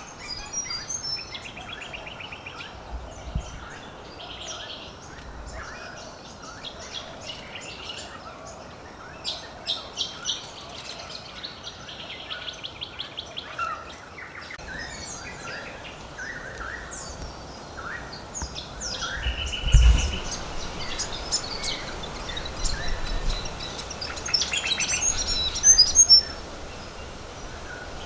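Several wild birds calling and chirping, with repeated short, rapid trills and scattered high notes; a burst of loud, high calls comes near the end. A low thump sounds about two-thirds of the way through.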